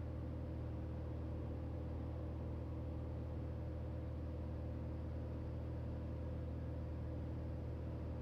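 Steady drone of a 1968 Cessna 182L Skylane's Continental O-470 engine (PPONK Northpoint XP470 conversion) and propeller, heard inside the cabin in level flight in the traffic pattern.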